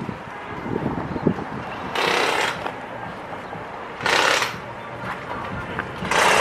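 A pneumatic impact wrench in a wheel shop, run in three short bursts of about half a second each, roughly two seconds apart, over a steady low background.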